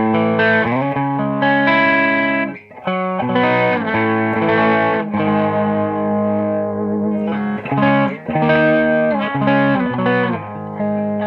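Electric guitar playing ringing chords and single notes through an Audiostorm Quad Screamer overdrive pedal in its germanium clipping mode, controls set flat and the dirty boost off, giving a clean, glassy, lightly driven tone.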